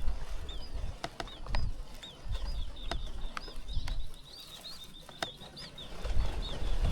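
Small birds chirping: a steady run of short, high, down-slurred chirps, a few each second, with a quicker string of them midway. Scattered sharp clicks and a low rumble sound underneath.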